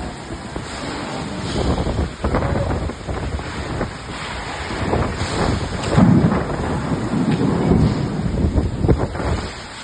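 Strong wind blowing onto the microphone in gusts, a rumbling buffeting that rises and falls, loudest about six seconds in.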